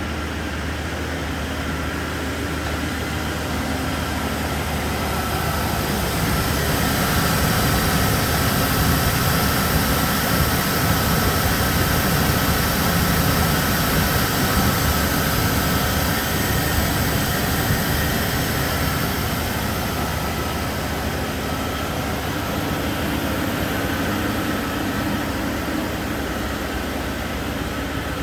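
2014 GMC Savana 2500's 6.0-litre V8 engine running steadily, getting louder from about six seconds in and easing back down after about twenty seconds.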